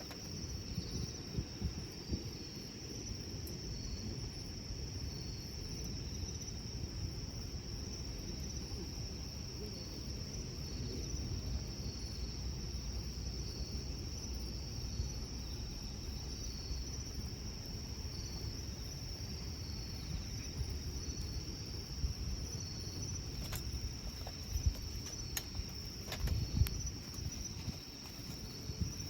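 Insects trilling in a steady, high, unbroken tone over a low steady rumble, with a few sharp clicks in the second half.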